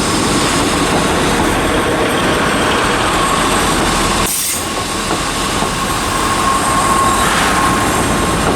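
A Class 156 Sprinter diesel multiple unit running into the platform, with a steady high-pitched wheel squeal over the rumble of the train.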